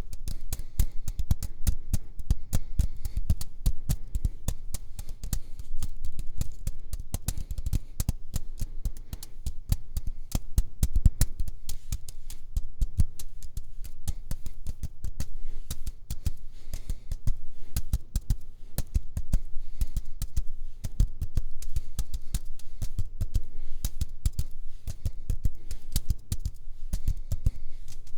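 Close-miked ASMR tapping: quick, irregular taps and clicks, several a second, layered over one another with a soft thump to each.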